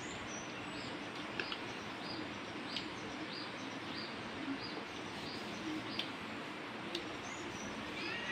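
A small bird chirping over and over, short high chirps about every half second, against a steady background hiss, with a few faint clicks.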